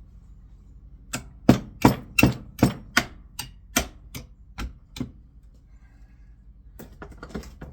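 Hammer blows on a speed reducer motor, about eleven sharp, even strikes at roughly two and a half a second, followed by a few lighter knocks, as the stuck, magnetically held armature is driven out.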